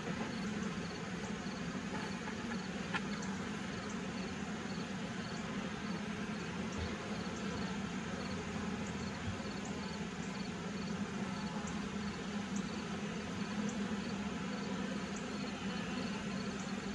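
Honey bees buzzing around an open horizontal hive, a steady low hum, with faint, regularly repeated high ticking behind it.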